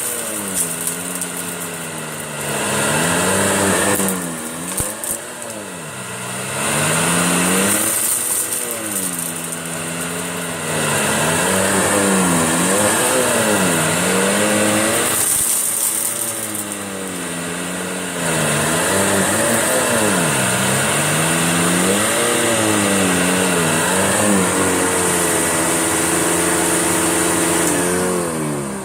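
Bagged Electrolux Turbo 2 Super vacuum cleaner running over a thick, dirt-loaded fur mat. Its motor pitch dips and rises again and again as the brush roll is pushed into the deep pile and pulled back, over a steady airflow hiss, and it winds down at the very end.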